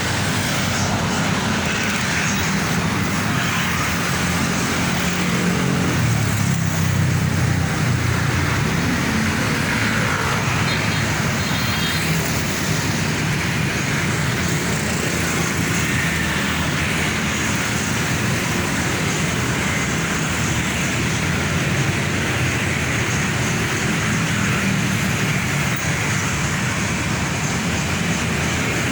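Busy road traffic: heavy truck engines and tyre noise going by, with the low engine sound loudest about six to nine seconds in.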